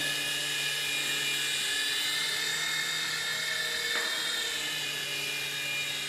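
Small electric motors and rotor blades of an F-415 remote-control toy helicopter running steadily as it hovers, a high whine over a low hum, while the pilot trims it to balance.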